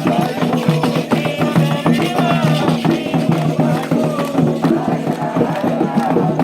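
Candomblé ritual music: singing over a steady, driving percussion beat.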